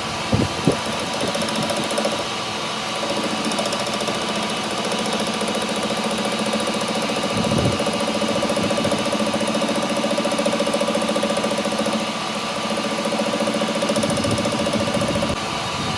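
A workshop machine running steadily, with a few short knocks: one near the start and one about halfway through.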